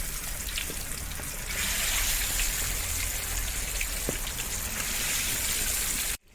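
Masala-coated chicken pieces deep-frying in hot oil: a steady sizzling hiss with small crackles, which swells slightly about a second and a half in and cuts off suddenly near the end.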